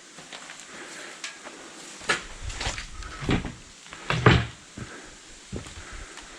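A series of sharp knocks and clunks, the loudest about four seconds in, over a low rumble.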